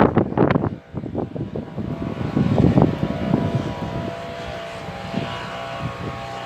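Gale-force wind buffeting the microphone in loud, uneven gusts. About halfway through it eases into a steadier hum, with a faint engine-like drone of several level tones.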